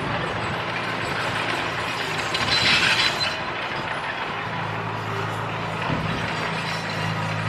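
Komatsu D31P crawler bulldozer working: a continuous mechanical clatter with its diesel engine running. A short, brighter, hissing or scraping burst comes about two and a half seconds in, and from just past halfway the engine hum becomes steady and more prominent.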